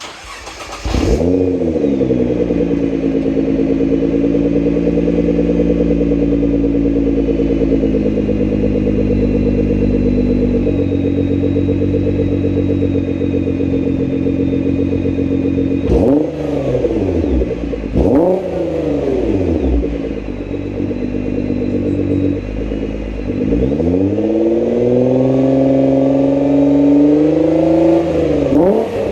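Exhaust of a Nissan R35 GT-R's twin-turbo V6, through a full-titanium exhaust with the second catalytic converter removed. It comes in about a second in with a rise in revs and settles into a steady idle. Two quick throttle blips follow past the middle, then a slower rev that is held before dropping back near the end.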